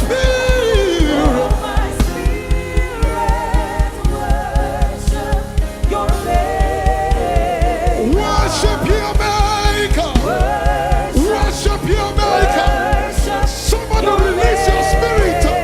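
Live gospel worship music: wavering, drawn-out singing over a band with a steady low beat about three times a second.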